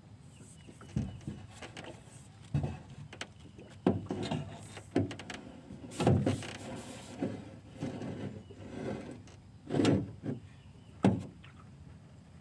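A series of irregular knocks and thumps, about ten of them at uneven spacing, the loudest near the middle and about ten seconds in.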